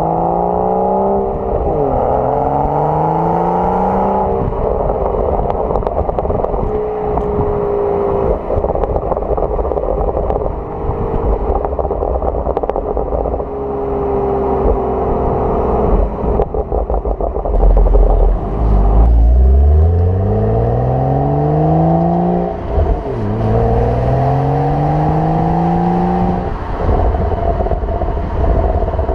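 BMW 335i's 3.0-litre turbocharged straight-six through an M Performance exhaust, revving up again and again, its pitch climbing and then dropping back sharply, with a deep rise about two-thirds of the way through. Short crackles and pops between the revs give the exhaust burble.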